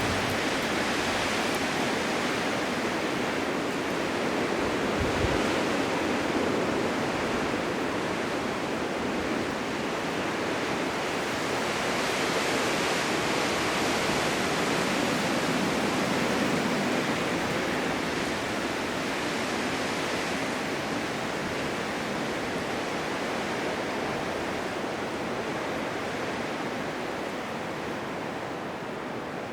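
Blizzard wind blowing as a steady rush of noise, swelling and easing slowly and fading a little near the end.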